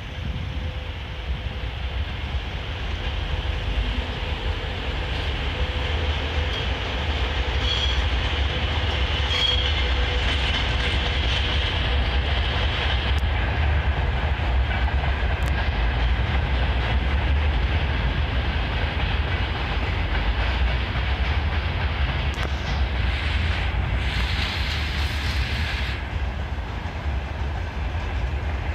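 Freight train hauled by a VL80S electric locomotive passing close by: the wagons rumble and their wheels clatter over the rail joints, growing louder over the first few seconds and then holding steady. A thin high whine comes and goes around the middle.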